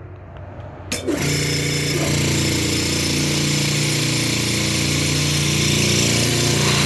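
Air Star 50 dental air compressor switching on about a second in, its twin motors then running steadily with a loud mechanical hum as they pump air into the tank.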